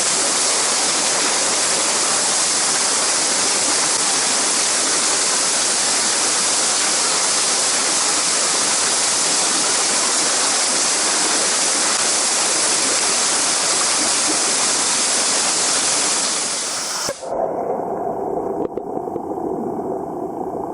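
Mountain stream water rushing with a steady hiss. About seventeen seconds in, it cuts abruptly to a muffled underwater sound, heard through a submerged camera, with a few faint clicks.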